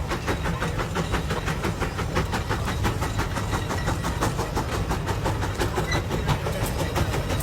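Steam traction engine working hard under load, its exhaust chuffing in a fast, even beat over a steady low rumble.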